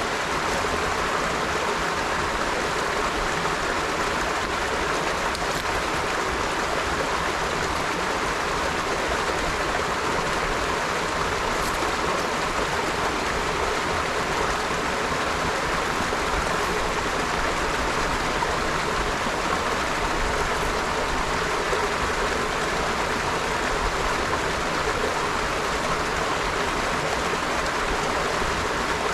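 River water flowing steadily over stones, a continuous even rush without pauses.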